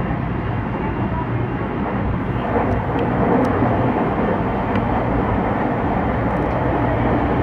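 Electric train running along the track, heard from inside the front car: a steady rumble of wheels on rail and running gear, growing louder and fuller about two seconds in.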